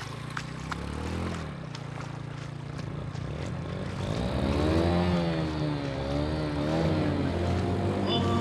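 A small engine running steadily, its pitch rising and falling several times as it speeds up and slows down in the second half.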